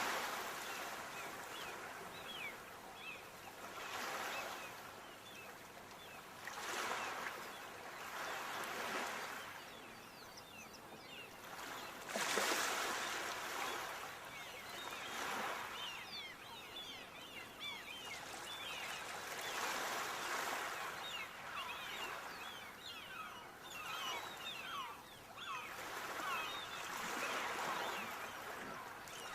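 Sea waves breaking and washing up the shore, swelling and easing every two to four seconds.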